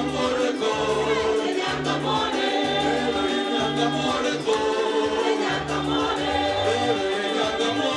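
A group of voices singing in chorus, gospel style, over a repeating bass line and a steady beat.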